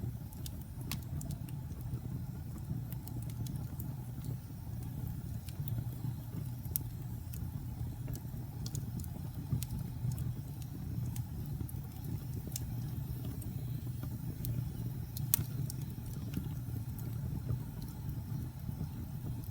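Fire burning in a fireplace: a steady low rumble with scattered small crackles and pops, a sharper pop about fifteen seconds in.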